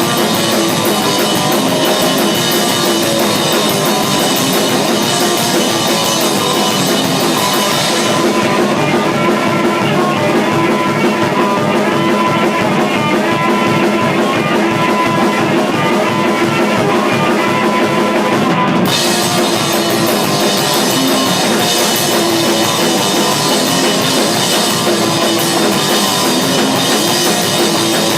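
A rock band jamming: drum kit and guitar playing loud, steady rock. About eight seconds in the bright, hissing top of the sound drops out for some ten seconds, leaving a melodic line over the drums, then comes back suddenly.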